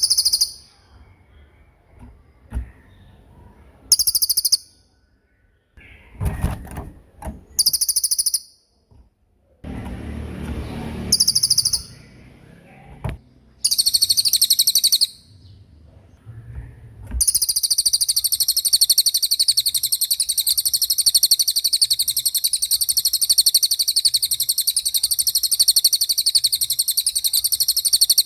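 A small songbird singing high, fast trilled phrases, short and separated at first, then in one long unbroken rapid trill over the last third. Low background rumbles sound twice under the earlier phrases.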